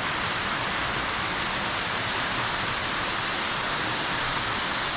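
Bambarakanda Falls, a very tall waterfall, rushing steadily as an even roar of falling water, its flow low before the rainy season.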